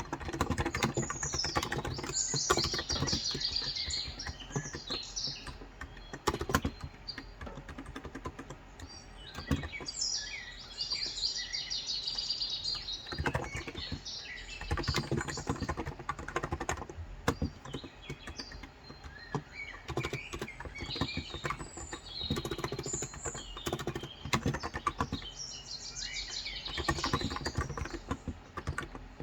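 Typing on a Cox Endeavor electro-capacitive (non-contact) tenkeyless keyboard with light 35 g switches: quick runs of keystrokes with short pauses between them. Birds chirp over the typing in several spells.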